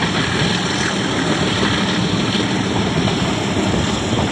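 Diesel locomotive engine chugging steadily as it hauls a moving passenger train, with an even rumble and rush of the running train.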